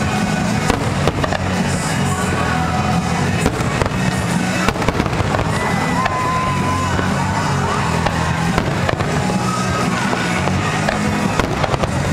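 Fireworks show: repeated bangs of aerial shells bursting through the whole stretch, over loud music playing along with the display.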